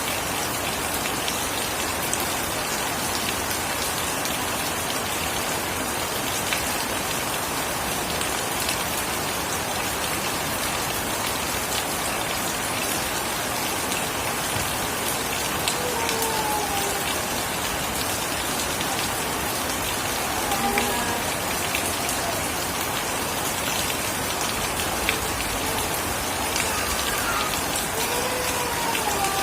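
Steady, heavy rain falling, with the hiss of the downpour and scattered individual drop ticks. In the second half, a few faint short sliding tones sound now and then through the rain.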